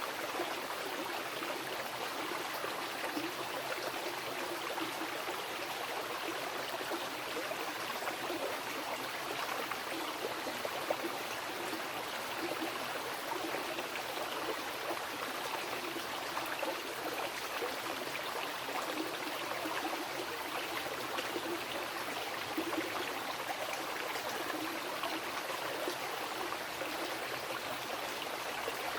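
A wild mountain river rushing and babbling over rocks, steady and continuous.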